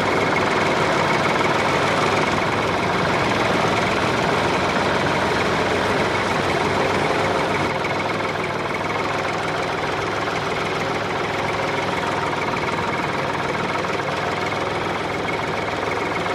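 Small motor and drivetrain of a DIY model tractor running steadily, a dense mechanical buzz with a faint high whine, easing slightly in level about halfway through.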